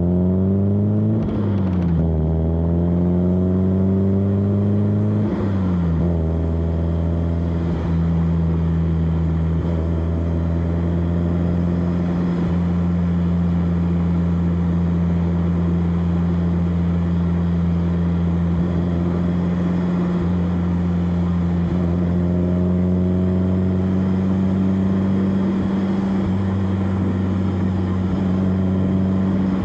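1991 BMW E30 316i's four-cylinder engine heard at the exhaust tailpipe: revs rise, dip with a gear change about a second in, climb again and drop around five to six seconds in, then settle into a steady drone at constant revs while cruising.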